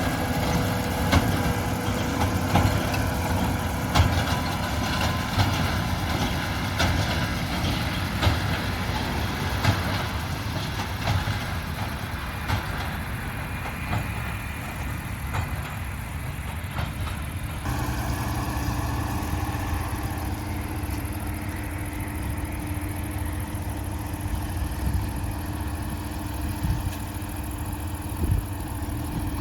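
Combine harvester and farm machinery at work in a grain field: diesel engines and threshing machinery running steadily, with scattered knocks in the first half. The sound changes abruptly about 18 seconds in and runs on steadily at a slightly lower level.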